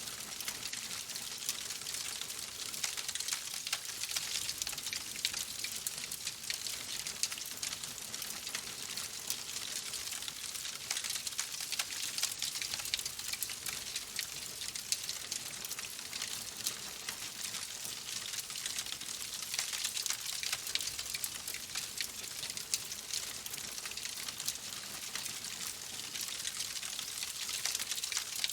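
Fireplace fire crackling: a dense, steady run of small crackles and pops over a soft hiss.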